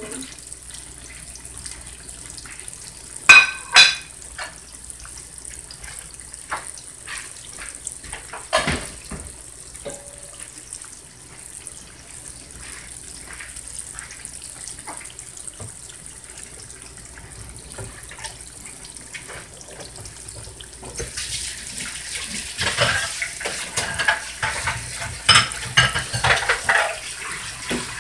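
Salmon croquettes frying in hot oil in a skillet: a steady sizzle with scattered pops and crackles that grows louder and busier over the last seven seconds. Two sharp clinks come about three and a half seconds in.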